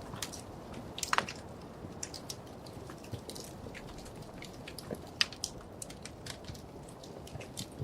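Wood fire crackling in a fireplace: a steady low rumble of burning with irregular sharp pops and snaps, a cluster of louder ones about a second in and another single loud pop around five seconds.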